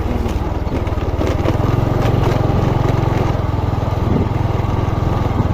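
Small motorcycle engine running steadily while being ridden, its pitch stepping up a little about one and a half seconds in as it picks up speed.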